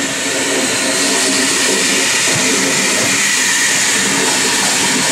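Steam locomotive blowing off steam, a loud, steady hiss that does not let up.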